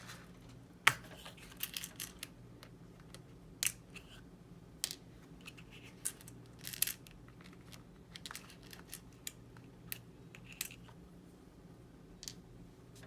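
Scattered sharp clicks and light taps of small model-kit parts and screws being handled and picked out. The loudest click comes about a second in, and they thin out near the end, over a steady low hum.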